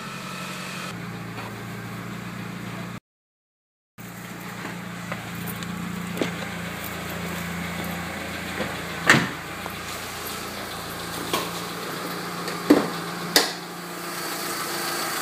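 The 2003 Mitsubishi Eclipse's 2.4-liter four-cylinder engine idles steadily shortly after a cold start, after two weeks of sitting. A few sharp knocks or thumps stand out over the idle in the second half, the loudest about nine seconds in and two close together near the end. The sound cuts out completely for about a second early on.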